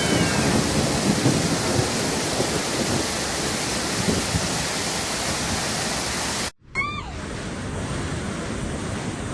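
Steady, dense rushing noise of heavy rain and floodwater. About six and a half seconds in it cuts out abruptly and resumes thinner, with a brief high-pitched cry just after.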